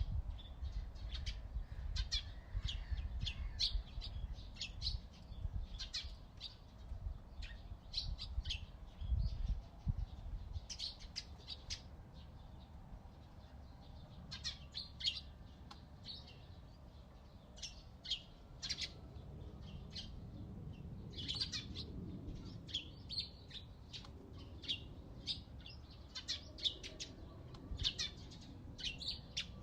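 Several small songbirds chirping, short high notes repeating in quick bursts, over a low background rumble.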